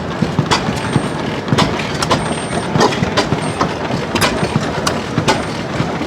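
Running engine machinery with many sharp, irregular clicks and knocks over a steady mechanical din.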